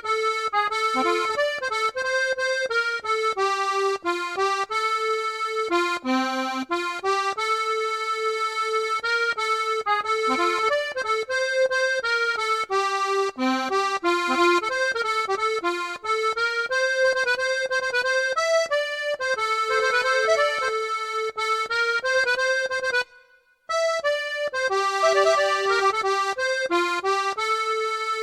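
Accordion playing a song melody over sustained chords, with a light low bass pulse underneath; it breaks off for about half a second around 23 seconds in, then resumes.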